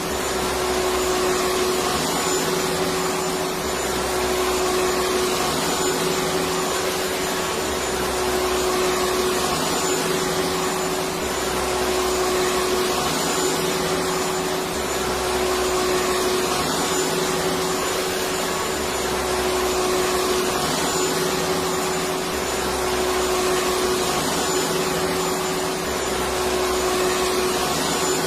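Electric vacuum cleaner running steadily: an even rushing whoosh with a steady hum, and a faint low throb that repeats every two seconds or so.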